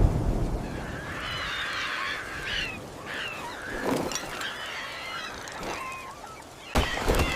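A flock of birds calling and squawking over one another in short twittering calls, with a sudden loud crash near the end.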